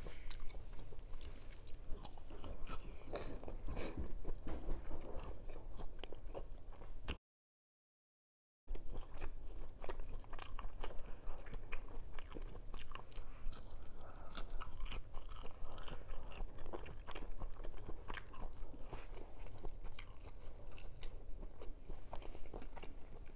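Close-miked mouth sounds of a person eating: wet chewing with frequent crunchy bites and lip smacks, as she works through red longganisa sausage and crisp fried dried fish (tuyo). About seven seconds in, the sound drops out completely for about a second and a half.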